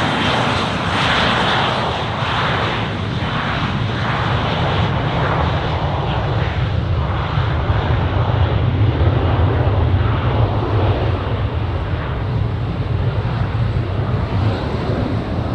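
Embraer Legacy 500 business jet's twin turbofan engines running with a steady rumble, the higher hiss slowly dying away.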